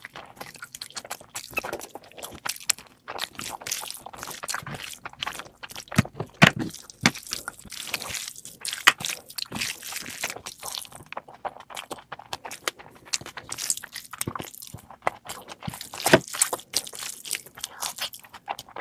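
A person eating, chewing and crunching food in irregular clicks and crackles, with a few sharper snaps around the middle and near the end.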